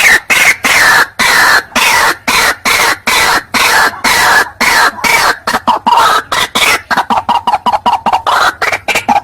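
White-breasted waterhen calling as a recorded lure: a loud, harsh note repeated about twice a second, the series falling in pitch. After about seven seconds it breaks into shorter, quicker notes.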